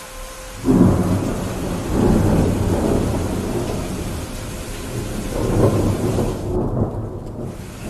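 Steady heavy rain with thunder: a low rumble breaks in about a second in and rolls on in waves, swelling again around five and a half seconds.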